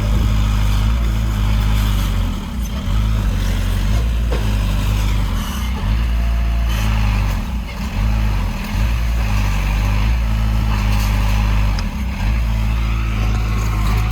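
Heavy diesel earthmoving machinery running steadily with a deep engine rumble, dipping briefly a few times.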